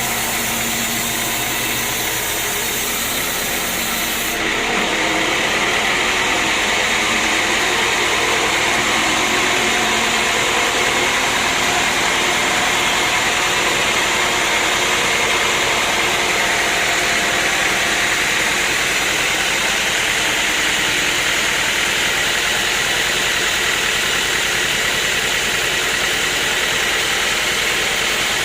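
Sawmill machinery running, a steady loud mechanical noise. About four seconds in it shifts in tone and grows slightly louder, then holds steady.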